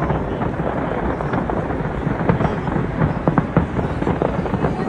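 Fireworks display going off: a dense run of sharp bangs and cracks over a steady low rumble of many shells bursting.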